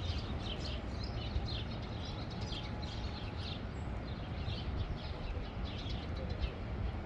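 Small birds chirping over and over, quick short calls several times a second, over a steady low rumble.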